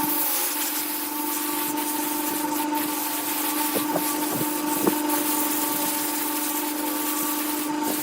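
Wood lathe running with a steady hum under a continuous hiss, with a few light knocks near the middle.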